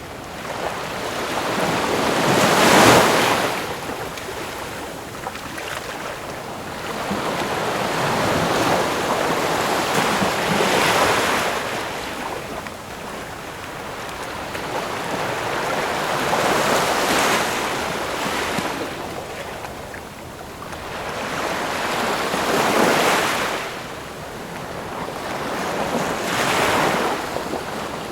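Ocean waves breaking and washing on a shore, swelling and ebbing in slow surges about every five to six seconds.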